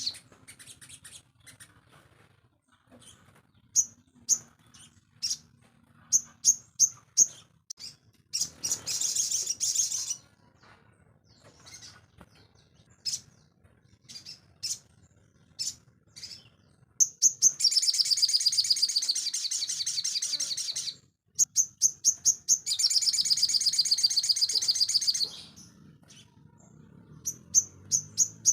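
Sogon birds calling: sharp, high chirps scattered throughout, with two long, rapid twittering songs in the second half that are the loudest part.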